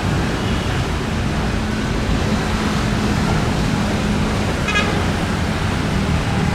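Steady road-traffic rumble with a low hum, and one brief high-pitched toot about three quarters of the way through.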